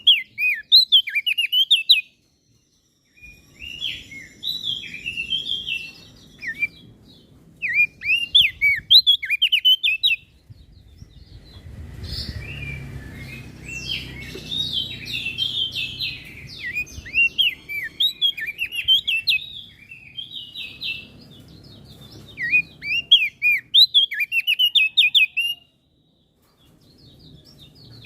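Crested white-eye (opior jambul) singing in short bursts of quick, high chirping notes separated by brief pauses, with a longer, denser run of song in the middle. A low rumble sits under the song.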